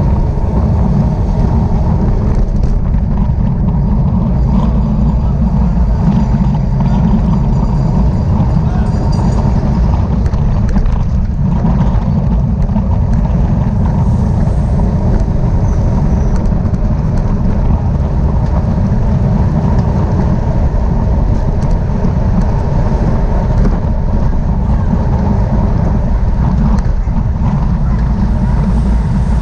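Steady, loud wind rumble on the microphone of a camera carried on a bicycle moving at speed.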